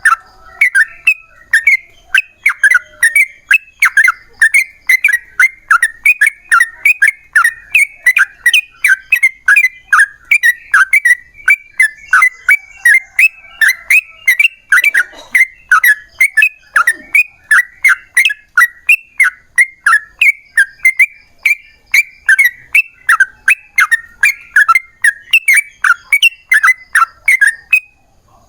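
Yellow-vented bulbul (trucukan) singing a long unbroken run of short, bubbling chattering phrases, about two a second, that stops shortly before the end.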